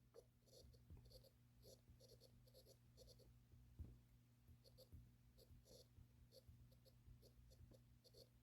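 Faint pen strokes of someone writing, one short scratch after another, over a steady low hum.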